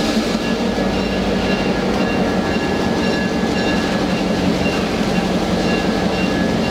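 Excursion train running along the track, heard from on board: a steady rolling rumble and rattle of wheels on rail with a low hum underneath.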